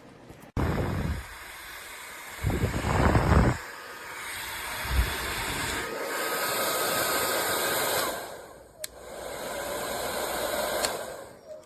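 Revlon 1875 W infrared ionic hair dryer switched on about half a second in and blowing with a steady airy rush, with a louder gusty surge about three seconds in. It cuts out around eight seconds, a click follows, then it runs again and stops near the end.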